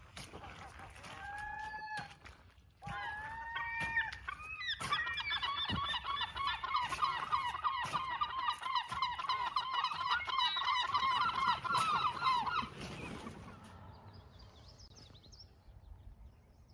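A flock of birds calling: a few separate gliding calls, then from about five seconds in many overlapping honking calls at once for about eight seconds, dying away near the end.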